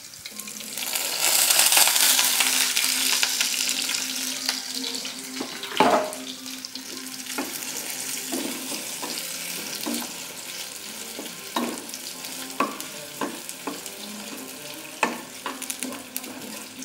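Sliced sausages dropped into hot oil with ground shallot and garlic. They sizzle loudly as they hit the oil about a second in, and the sizzle slowly eases to a steady frying hiss. Sharp knocks and scrapes against the pan come as they are stirred.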